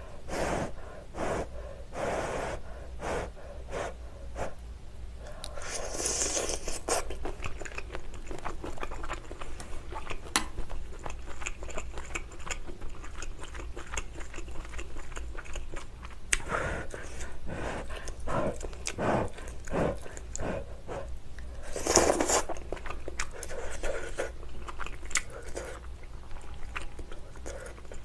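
Close-miked eating sounds: a woman biting and chewing shrimp and other hot pot ingredients from a malatang broth, with many small wet mouth clicks. Two louder breathy bursts stand out, about six seconds in and again about twenty-two seconds in.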